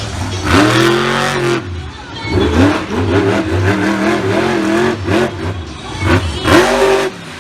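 Monster truck engine revving in bursts: the pitch sweeps up about half a second in and again near six seconds, wavering with the throttle in between.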